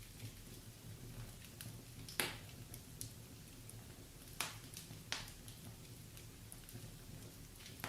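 Wood fire in a fireplace crackling: scattered sharp pops every second or two, the loudest about two seconds in, over a faint low hum.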